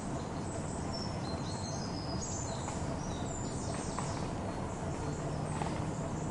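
Small birds chirping in short, high phrases over a steady low rumble of outdoor background noise.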